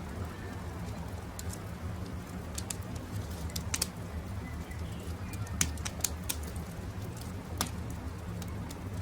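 Campfire crackling, with sharp pops at irregular intervals over a steady low rumble. Birds, including a dove cooing, call faintly behind it.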